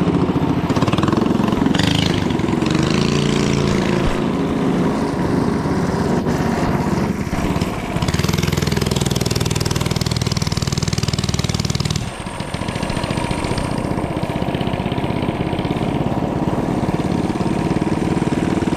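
Mini bike engine running at high revs, its pitch climbing over the first few seconds as it accelerates, then held; the revs drop sharply about twelve seconds in and build up again.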